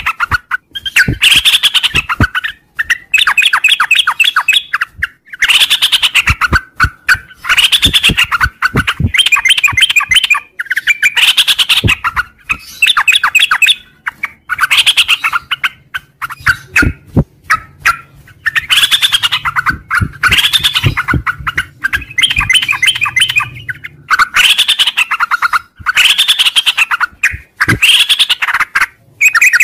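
Sooty-headed bulbul (trucuk) singing a long 'ngropel' song: loud chattering, warbling phrases of about a second each, repeated over and over with short breaks between them.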